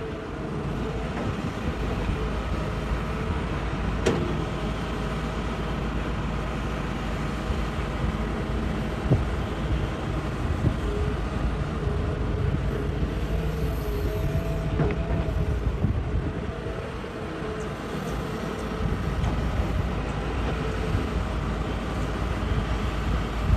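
Hitachi hydraulic excavator's diesel engine running steadily under load while digging rock, with a few sharp knocks.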